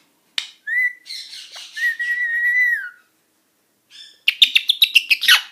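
Indian ringneck parakeet whistling one long, steady note, then a quick run of sharp chattering clicks near the end.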